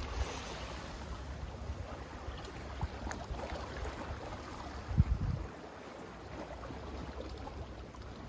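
Sea surf washing steadily with wind buffeting the microphone; a low thump stands out about five seconds in.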